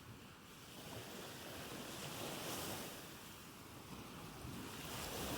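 Soft ocean waves, a steady wash of surf that swells gently twice, around the middle and near the end.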